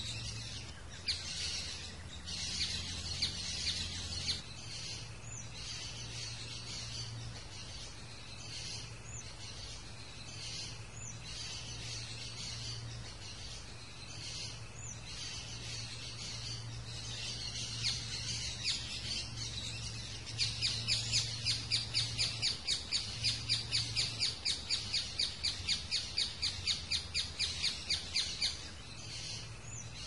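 Rufous hornero calling: scattered sharp high calls, then about twenty seconds in a loud rapid run of even notes, about four a second, lasting some eight seconds before breaking off.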